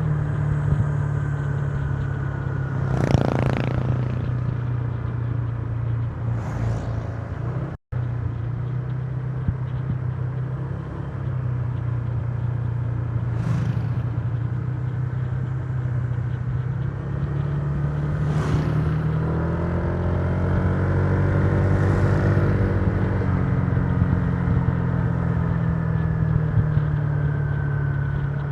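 Honda Giorno 125 scooter's engine running steadily while riding, its pitch shifting with the throttle and rising for a stretch near the end. Several short whooshes of air pass over it, and the sound drops out for an instant about eight seconds in.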